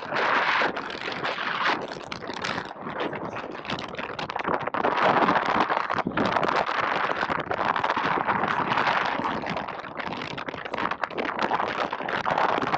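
Strong wind buffeting a camera microphone while out wingfoiling, a dense rushing noise that surges and eases in gusts.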